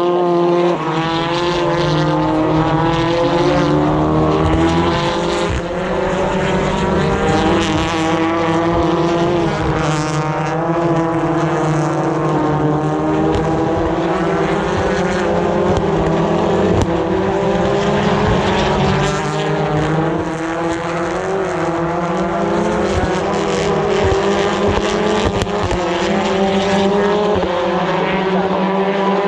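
British Touring Car Championship cars, 2-litre turbocharged four-cylinder racing engines, running at full race pace past the trackside spot. Several engine notes overlap, rising and falling continuously as the cars come through the corners and change gear.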